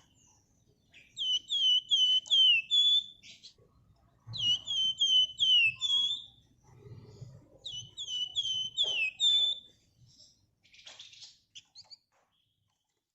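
A flamboyan (wergan Jawa) songbird singing three quick, loud phrases, each a rapid run of high falling whistled notes ending on a longer note.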